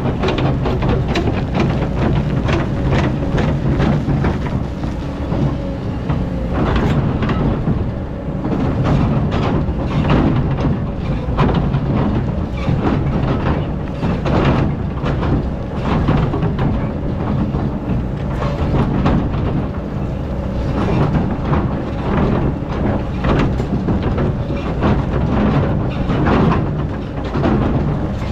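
Hydraulic excavator's diesel engine running steadily under load, with repeated irregular clanks and scrapes as the steel bucket digs into very hard, compacted old sand.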